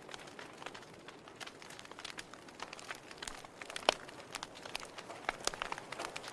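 Wood fire in a fireplace crackling: irregular sharp pops and snaps of burning firewood over a soft hiss, with one louder pop about four seconds in.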